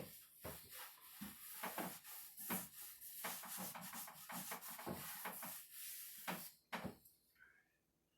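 A cloth wiping dust off the freshly sanded cedar wood of a chest, in quick rubbing strokes with light knocks, which stop about seven seconds in.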